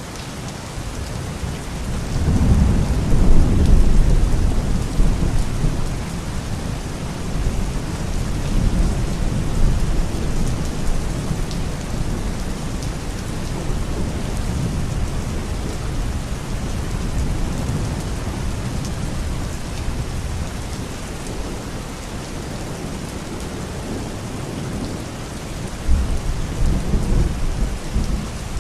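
Steady heavy rain with rolling thunder: a low rumble swells about two seconds in and fades slowly over several seconds, and another rumble comes near the end.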